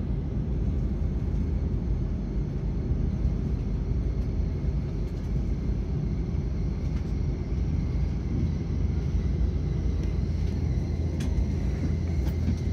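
Steady low rumble of a Shinkansen bullet train, heard from inside the passenger cabin as it runs along the track.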